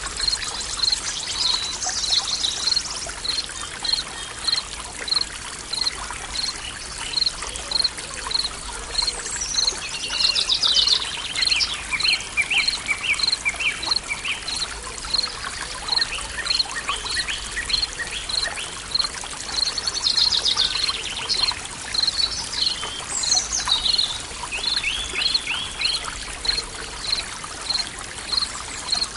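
Forest ambience: a stream of water runs steadily while birds sing. A short, high chirp repeats about twice a second throughout, and a few longer trilled phrases come and go.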